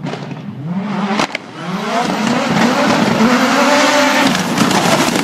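Turbocharged four-cylinder of a 750 hp Mitsubishi Lancer Evolution VIII with antilag, accelerating hard and revving up through the gears as it approaches. There are two sharp pops at a gear change about a second in, and the sound grows louder as the car comes closer.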